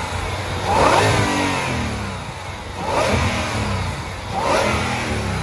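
2020 Shelby GT500's supercharged 5.2-litre V8 revved in three quick blips with the exhaust in quiet mode, so the supercharger's whine rises and falls with each blip.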